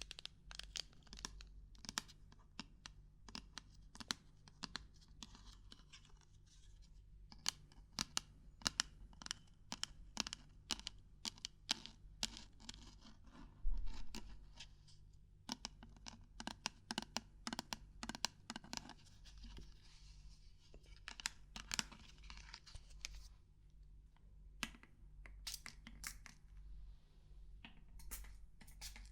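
Fingers tapping, knocking and scratching on assorted small objects: an irregular run of close, crisp clicks and scratchy rustles, with one louder knock about halfway through, over a faint low hum.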